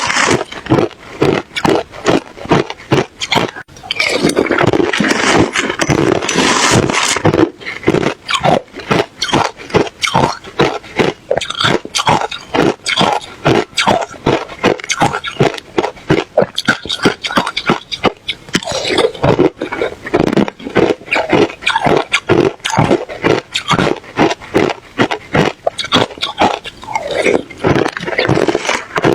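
Ice being bitten and chewed close to the microphone: a fast run of crisp crunches, several a second, with a few denser stretches of grinding chews.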